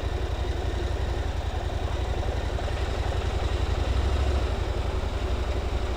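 Motorcycle engine running steadily at low speed, with a fast low pulsing under a steady rush of wind and road noise.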